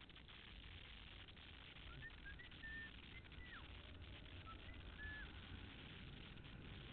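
A bird chirping faintly: a few short high notes about two seconds in and again near five seconds, one sliding down, over a low hiss and rumble.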